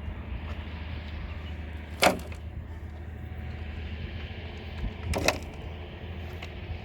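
Two sharp knocks about three seconds apart over a steady low rumble.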